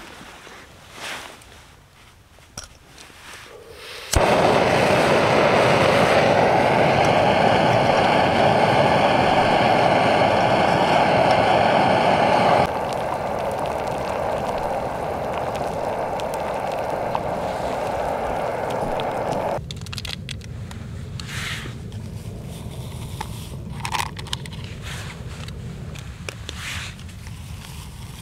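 Gas canister camping stove lit with a sharp click about four seconds in, its burner then burning with a loud steady hiss. The hiss steps down to a lower level twice, about halfway through and again later, with small handling clicks and rustles around it.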